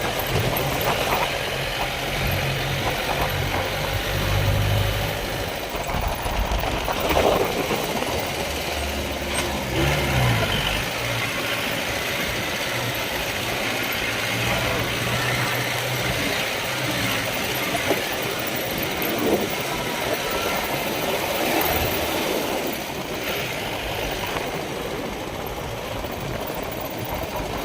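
A motor vehicle's engine running, with a low hum over a steady hiss; the hum fades out about eleven seconds in, leaving the hiss.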